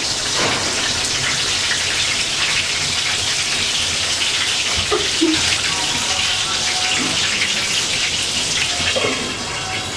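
Marinated eggplant slices frying in hot oil in a pan, with a steady sizzle.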